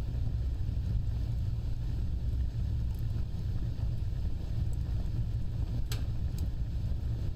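Wood fire burning with a steady low roar and a few sharp crackles, the loudest about six seconds in.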